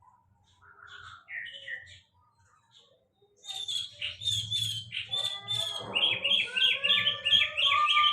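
Sulingan laut songbird singing: a few scattered chirps, then from about halfway in a fast, continuous warbling song of quick high notes that gets louder toward the end.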